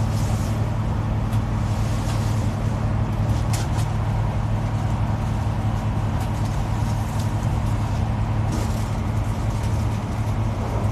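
Steady running noise of a moving vehicle: a constant low hum under an even noise, with a few faint clicks.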